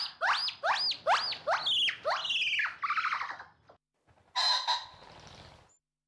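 Gibbon calling: a run of rising whoops that quicken and climb in pitch, then fade out about three and a half seconds in. About a second later comes one short, harsh squawk.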